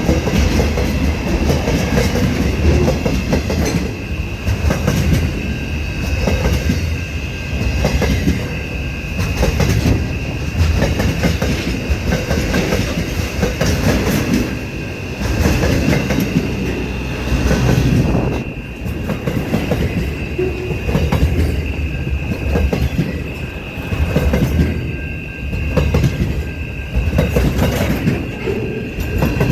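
Aurizon freight train's wagons rolling along the track, wheels clacking over rail joints in an irregular rhythm, with a steady high-pitched squeal from the wheels.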